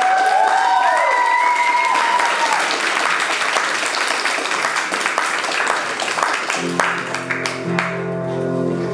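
Audience applauding after an acoustic guitar song, with a gliding shouted cheer in the first two seconds. The applause thins out and acoustic guitar playing resumes about six and a half seconds in.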